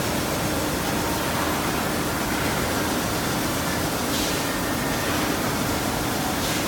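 CNC lathe running: a steady, dense machine noise with a faint low hum, and brief surges of hiss about four seconds in and again near the end.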